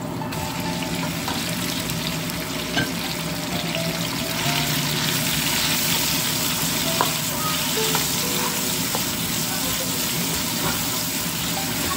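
Sliced meat sizzling in hot oil and garlic in a nonstick wok as it is tipped in and stirred with a spatula. The sizzle grows louder a few seconds in, with a couple of sharp clicks of the spatula against the pan.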